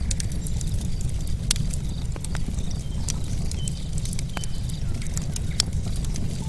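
Wood bonfire crackling, with irregular sharp pops and snaps of burning logs over a steady low rumble of the flames.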